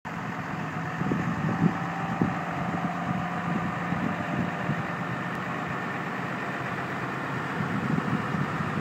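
The 6.7-litre Cummins inline-six turbo diesel of a 2011 Dodge 5500HD dump truck idling steadily, getting a little louder near the end.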